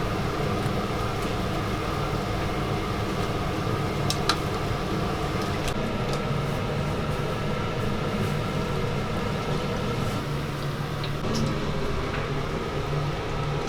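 Steady mechanical hum with a constant rushing noise, broken by a few light clicks.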